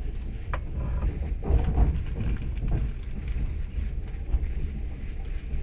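Train running, heard from inside the carriage: a steady low rumble of the wheels on the rails with a few knocks and rattles, loudest about two seconds in.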